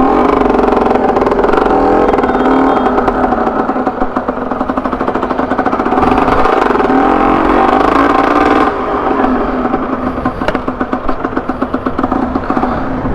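A two-stroke Honda MTX motorcycle running loud under way with a broken silencer, the engine note rising and falling as it is ridden, and easing off about two-thirds of the way through.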